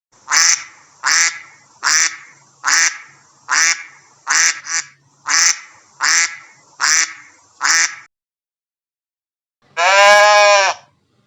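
A duck quacking again and again, about eleven short quacks spaced a little under a second apart, then stopping. Near the end comes one longer, drawn-out animal call.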